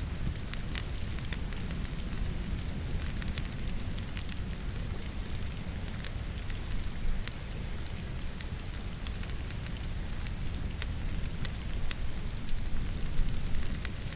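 Firewood burning in a fireplace, crackling with frequent sharp pops over a steady low rumble, mixed with steady rain. A few louder pops come about halfway through and near the end.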